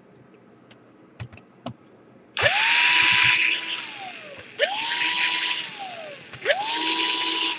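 Small electric screwdriver run in three short bursts, each spinning up quickly, holding for about a second and winding down as it backs screws out during laptop disassembly. A few light clicks come before the first burst.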